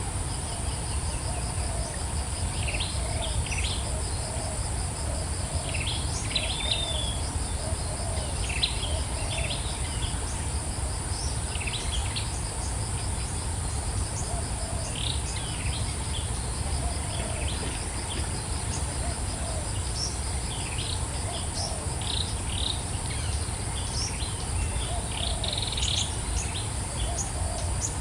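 Steady high-pitched insect drone, with a faster pulsing trill beneath it, and short bird chirps scattered throughout, over a steady low rumble.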